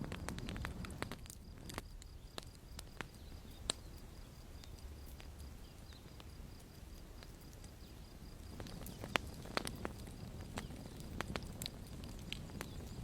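Campfire crackling: scattered, irregular snaps and pops of burning wood over a low steady rumble, with a few louder snaps in the second half.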